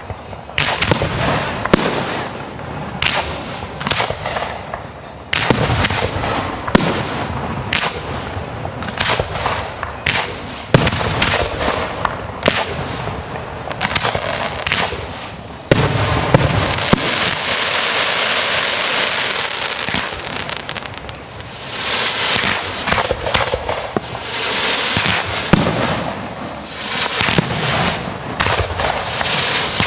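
Fireworks display: a steady run of booming shell bursts, many close together, with crackling shells. A long stretch of dense crackling comes in the middle.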